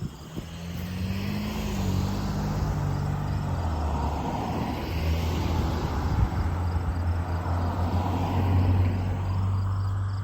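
Diesel locomotives of a slow-moving Canadian Pacific manifest freight train passing, a steady low engine drone over rumbling wheel noise. It builds over the first couple of seconds and eases slightly near the end.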